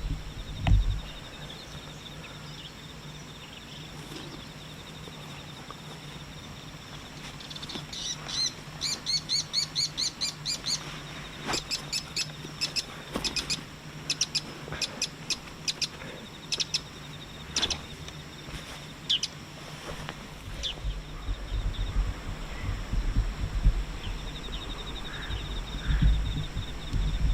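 Wild birds calling: a fast run of high repeated chirps about eight seconds in, then scattered sharp single notes. A faint high trill runs under it at the start and again near the end.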